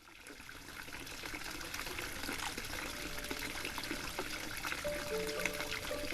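Running water trickling and splashing, fading in at the start. Music with long held notes comes in over it near the end.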